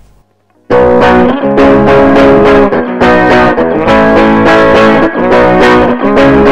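Electric guitar played through a Mesa Boogie Recto-Verb Twenty-Five tube combo amp on its clean channel: strummed chords come in loud about a second in and go on in a steady rhythm.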